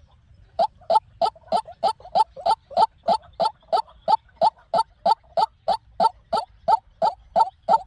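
White-breasted waterhen calling: a rapid, even series of short harsh notes, about three a second, starting after a brief pause at the beginning.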